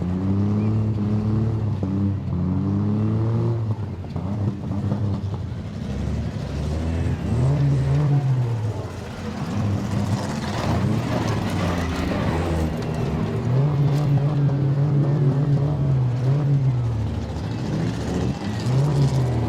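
Demolition derby car engines revving, their pitch rising and falling several times over a steady rumble.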